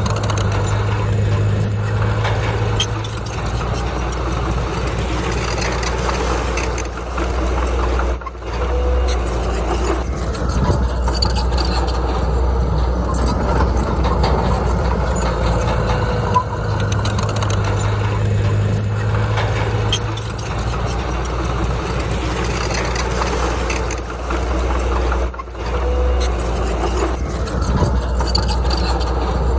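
Heavy diesel engine of earthmoving machinery working steadily. It rises to a stronger, deeper note for a few seconds twice and dips briefly in between.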